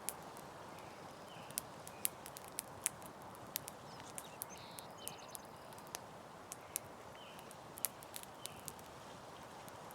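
Campfire crackling: irregular sharp pops and snaps over a steady low hiss of burning wood.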